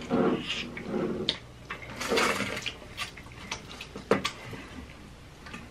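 Close-miked eating noises from mozzarella sticks being eaten: wet chewing and mouth sounds, with a few sharp clicks and a longer wet smacking sound about two seconds in.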